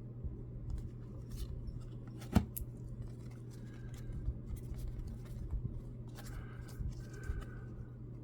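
Baseball trading cards being handled and flipped through: light scattered scrapes and clicks, with one sharper click a little over two seconds in.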